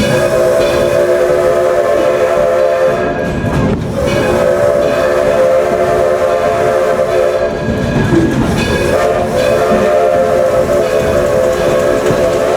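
Steam locomotive's chime whistle sounding three long blasts of a several-note chord, the third still going at the end, over the rumble of the running train.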